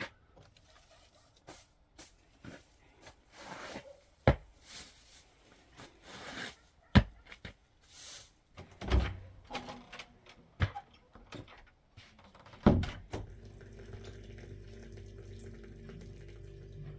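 Household handling noises: a string of knocks and clatters with short rushing sounds, the loudest knock about thirteen seconds in. Then a steady drone of background music comes in.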